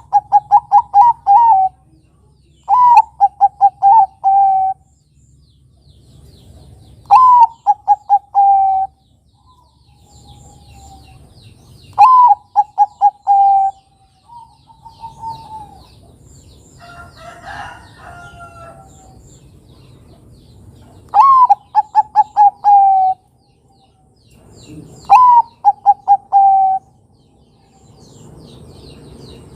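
Zebra dove (Bangkok perkutut) singing its cooing song, six times: each phrase opens with a note that rises and falls, then runs into a quick string of short coos. Faint high chirps of small birds are heard between the phrases.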